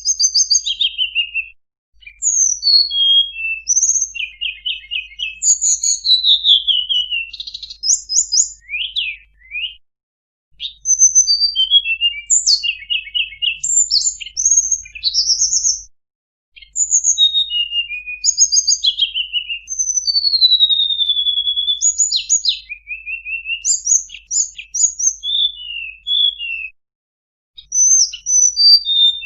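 A tledekan gunung (Sunda robin) singing a long, varied song of rapid chirps, trills and sliding whistles in phrases, broken by short pauses about 2, 10, 16 and 27 seconds in. The song is a full 'isian' song, taking in phrases learned from other birds.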